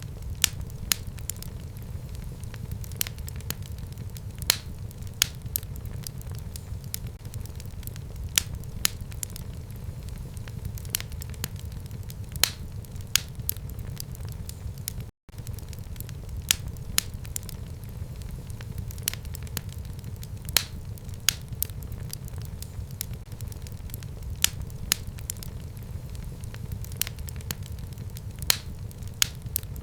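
Wood fire in a home fireplace crackling, with frequent sharp pops over a low, steady rumble. The sound cuts out for an instant about halfway through.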